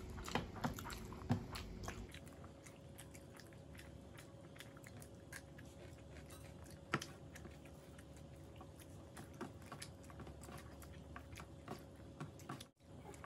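Chewing and mouth sounds of people eating rice and curry with their hands: a steady run of small wet clicks and smacks over a faint steady hum, cutting out briefly near the end.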